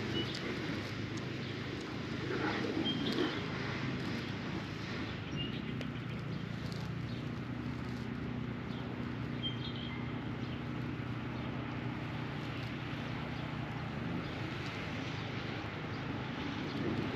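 Outdoor ambience: a steady low hum with a few short, high bird chirps now and then.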